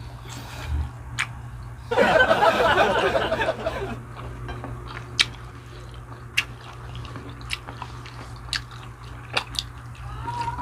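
Close-up eating sounds: a loud crunchy bite and chewing of crisp food about two seconds in, lasting about two seconds, followed by wet chewing with sharp mouth clicks and smacks every second or so.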